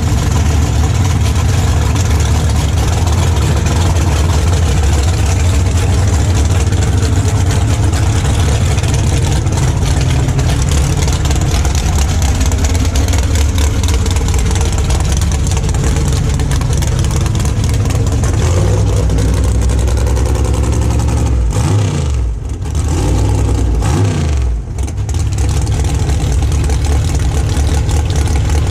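Drag race car engines running loud and rumbling throughout, with the pitch sweeping up and down twice a little over 20 seconds in as an engine is revved.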